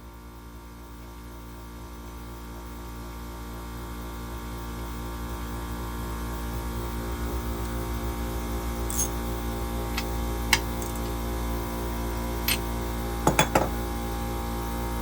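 Steady electrical hum that slowly grows louder, with a few sharp clicks and a short cluster of knocks in the second half.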